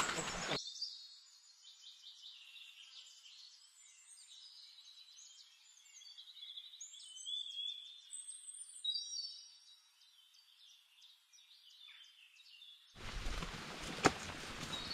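Forest birds chirping and calling: many short trills and gliding whistles, thin-sounding with the low end cut away. About 13 s in, fuller sound of footsteps on rocks breaks in, with one sharp knock just after, the loudest moment.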